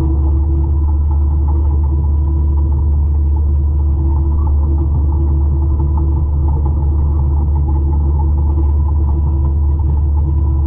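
A 200-horsepower forestry mulcher running steadily, a loud, even, deep drone with steady tones over it.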